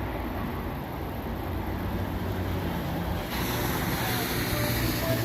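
Rain with vehicle noise: an even rushing hiss over a steady low rumble. The hiss grows suddenly louder about three seconds in.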